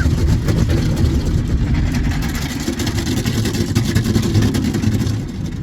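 Automatic car wash machinery running, heard from inside the car: a loud, dense hiss and rumble that ends about five seconds in.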